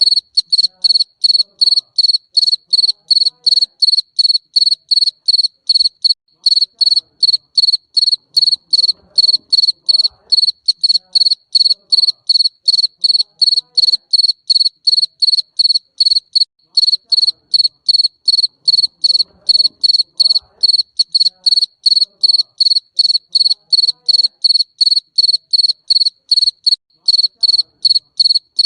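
Garden cricket chirping, a high, even train of short pulses at about three chirps a second.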